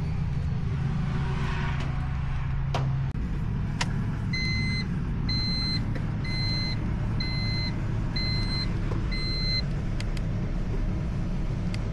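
Turbocharged Honda D16 engine idling with a steady low hum. Partway through, six short electronic beeps sound about once a second.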